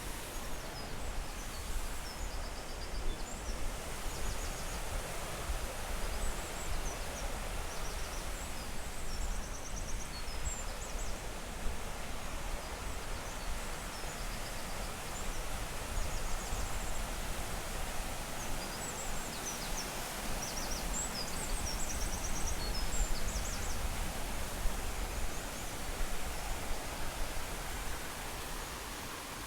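Steady rushing of a waterfall, an even hiss and rumble of falling water. Small birds chirp high above it in scattered bursts.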